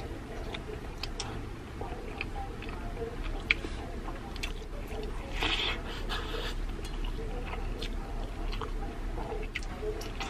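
A person chewing and eating rice and smoked fish by hand, with scattered small wet mouth clicks and a brief louder smacking stretch about halfway through.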